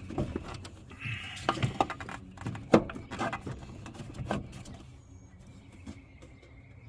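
Hands fitting a new brake booster into a truck's engine bay: a series of sharp knocks and scrapes as the unit is worked into place, the loudest knock near the middle, then quieter.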